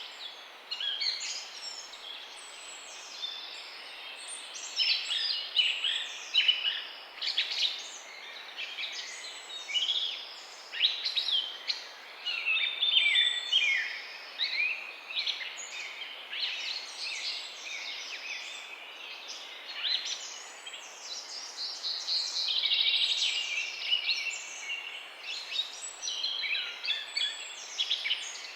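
Morning chorus of many small birds chirping and singing at once, dense overlapping high chirps and quick trills over a faint steady background hiss.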